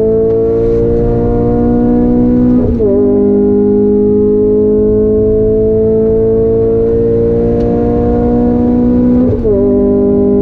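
Renault Clio RS 200 Cup's 2.0-litre four-cylinder engine, heard from inside the cabin, accelerating with its pitch climbing steadily. The pitch drops sharply at two upshifts, about three seconds in and again near the end.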